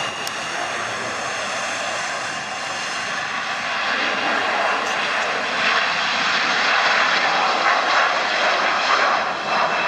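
Jet airliner's engines: a broad rush with a steady high whine, growing louder about halfway through.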